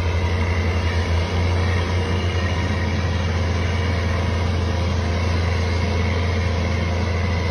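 An engine running steadily: a deep, even drone with a faint steady whine above it.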